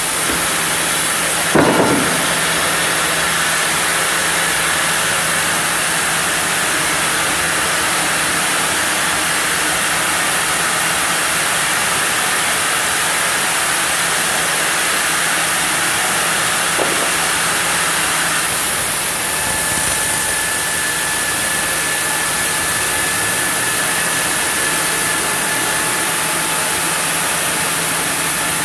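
Sawmill saw running and cutting through a block of zelkova hardwood, a loud steady mechanical noise. There is a sharp knock about a second and a half in, and a steady high whine joins the noise about two-thirds of the way through.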